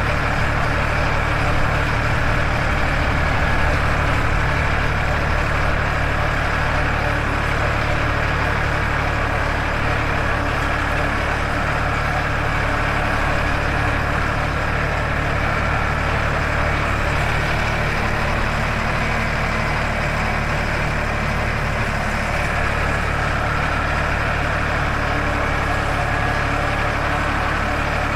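Farmtrac 60 tractor's diesel engine running steadily at an even, unchanging engine speed.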